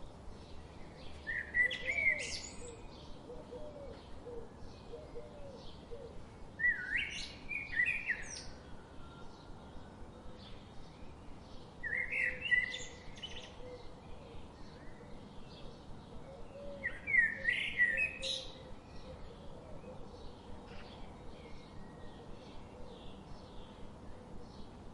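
Birdsong: four loud, quick chirped phrases of about a second or two each, roughly five seconds apart, over a faint steady run of rapid chirps, about five a second.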